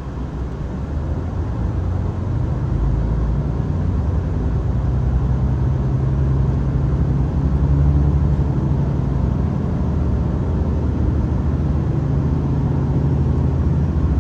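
Diesel limited express train, a KiHa 261 series railcar, running, heard from inside the passenger car: a steady low engine hum over the rumble of the wheels, growing louder over the first few seconds and then holding.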